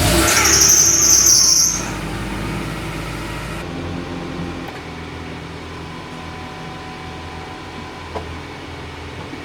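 1999 Honda Prelude's engine running just after a cold start. It is loud with a high hiss for the first two seconds, then settles into a quieter steady hum.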